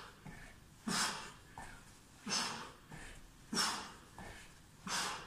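A person breathing hard while exercising: sharp, forceful breaths out, about one every second and a half, each followed by a softer breath.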